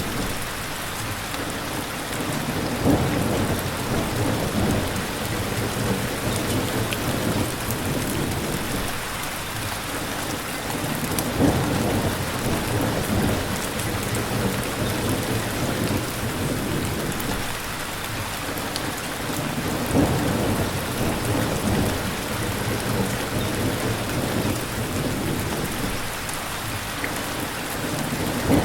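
Steady heavy rain with low thunder rumbling underneath, swelling and fading. Four short, louder cracks come at even spacing, about every eight or nine seconds.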